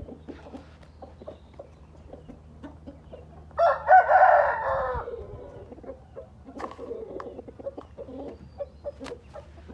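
Gamefowl rooster crowing once, about three and a half seconds in, for about a second and a half, followed by softer clucking.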